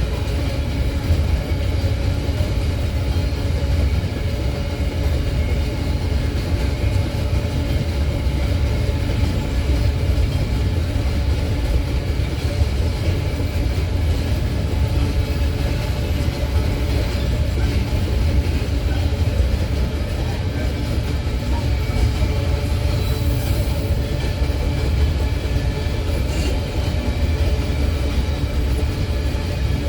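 Empty iron-ore train rolling past, its wheels on the rails making a steady low rumble.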